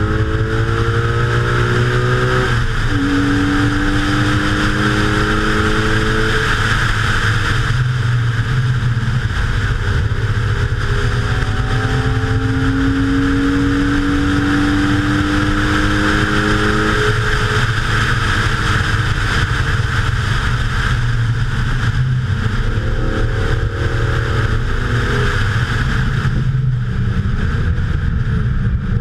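Racing car's engine accelerating hard in long pulls that climb in pitch, each ending in a sudden drop as the car shifts gear or lifts off, with steady wind rush over the onboard microphone.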